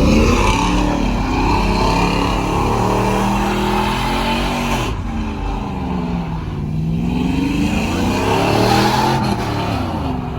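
Truck engines revving, their pitch repeatedly climbing and dropping back.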